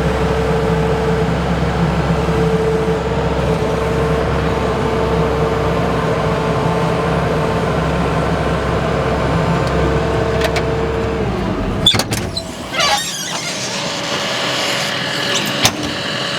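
A large engine running steadily, then shut off about three-quarters of the way through, its sound falling away as it stops. A sharp click follows, then quieter, higher-pitched noise.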